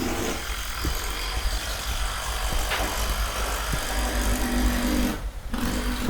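A motor vehicle driving past on the street: a steady rush of engine and tyre noise that cuts off a little after five seconds and comes back near the end, over low wind rumble on the microphones.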